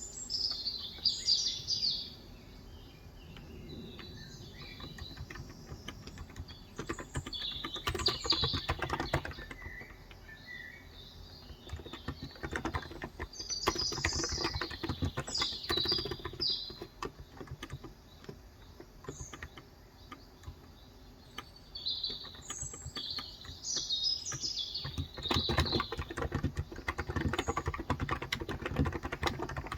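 Typing on a Cox Endeavor tenkeyless electrostatic-capacitive keyboard with 35 g keys, in runs of rapid keystrokes with short pauses. Birds chirp high and intermittently throughout.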